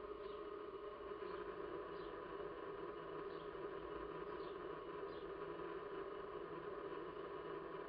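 Small birds giving short, high, falling chirps, about one a second, over a steady low hum.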